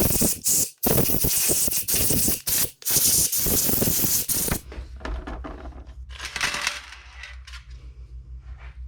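Loud hissing spray in long bursts, broken by brief gaps about a second and nearly three seconds in, as carburettor parts are cleaned; it stops after about four and a half seconds, leaving a steady low hum with one more short hiss.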